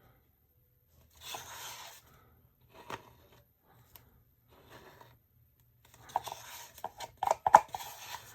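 Rustling and scraping handling noises in a few separate bursts, with several sharp clicks clustered near the end, the loudest part.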